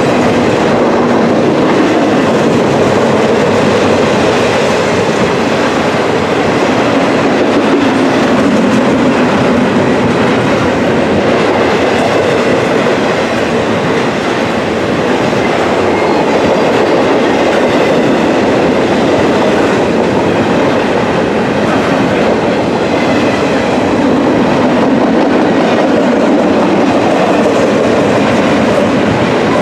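Double-stack intermodal container train passing close by: the loud, steady noise of its steel wheels rolling on the rails, easing slightly about halfway through.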